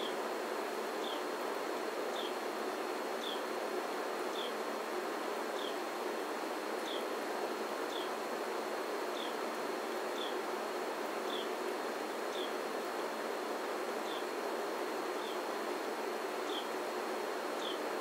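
A bird's short, falling chip note, repeated evenly about once a second over a steady hiss.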